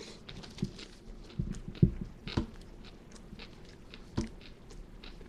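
A person chewing a mouthful of a Burger King hand-breaded fried chicken sandwich: wet mouth clicks with a few louder knocks, the loudest a little under 2 seconds in and another about 4 seconds in.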